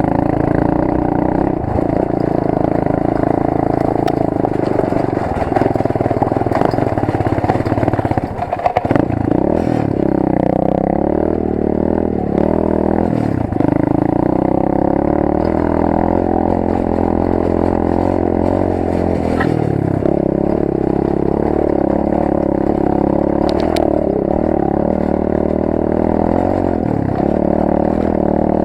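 Rampage 125 cc pit bike's single-cylinder four-stroke engine heard from an onboard camera while riding, its note rising and falling again and again as the throttle opens and closes, with a rough patch and clatter about eight to nine seconds in.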